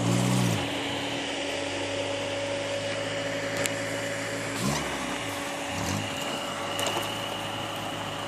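Suzuki Samurai engine running under load as the 4x4 crawls up a steep dirt bank, a steady drone with short bursts of throttle that rise and fall in pitch at the start and twice more about halfway through.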